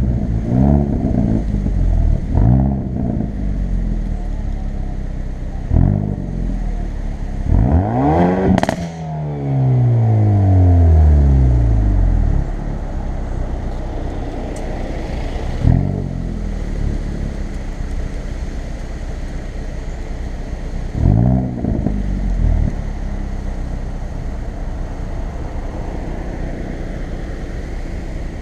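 Hyundai i30 N's turbocharged 2.0-litre four-cylinder engine and sport exhaust on the road: several quick rises and falls in revs, then one big rev about eight seconds in, topped by a brief sharp crack, that winds down slowly. After that the engine runs at a steadier drone, with short rises in revs twice more.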